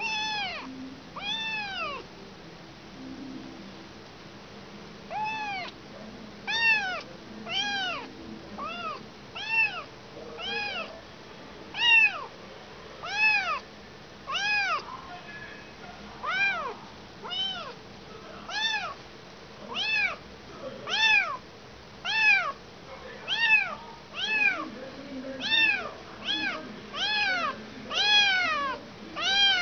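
A kitten meowing over and over, about one high call a second, each call rising and then falling in pitch, with a pause of a few seconds near the start. The calls are those of a kitten separated from its mother.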